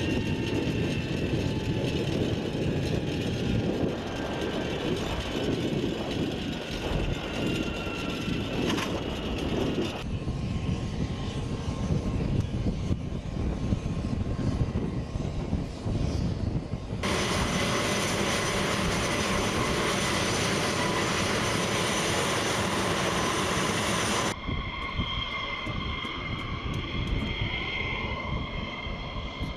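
Fairchild Republic A-10 Thunderbolt II's twin General Electric TF34 turbofan engines running: a steady high whine over a rumble, the whine slowly falling in pitch during the first stretch. The sound changes abruptly three times, at cuts between shots.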